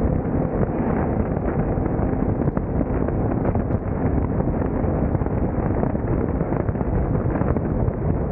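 Wind buffeting the microphone: a steady, dense noise with no breaks.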